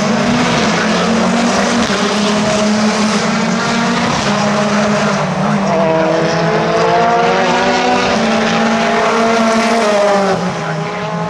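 Several racing car engines running hard at once as a pack of cars passes, their engine notes rising and then falling away near the end.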